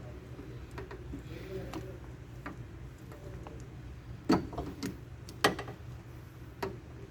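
Several sharp knocks and clicks, the two loudest about four and five and a half seconds in, over a steady low hum.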